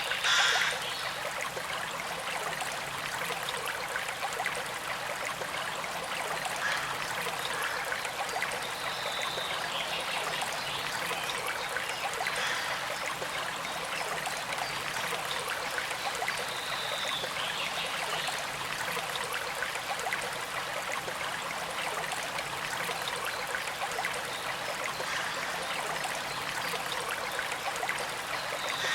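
Small creek flowing steadily, water trickling and gurgling over stones, with a brief louder splash of water right at the start.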